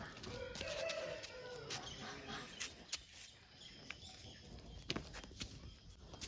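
Faint farmyard animal calls: a drawn-out call in the first couple of seconds, with a few soft clicks or knocks later on.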